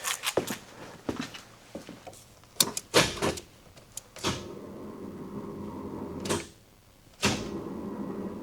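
A few clicks and knocks, then a 1984 Chevrolet S10 Blazer's starter cranking the 2.8 V6 really slowly in two tries of about two seconds each, the engine just barely rotating. The owner puts it down to a weak battery and terrible battery cable connections rather than a bad starter.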